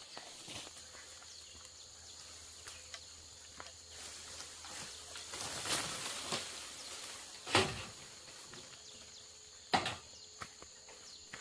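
Outdoor rural ambience: a steady, faint high insect drone, broken by a few scattered knocks and rustles, the sharpest a single knock near the end.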